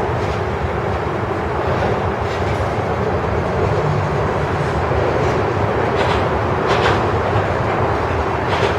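Freight train of a grain train rolling past, with steady wheel-on-rail noise and a few sharper clacks in the second half.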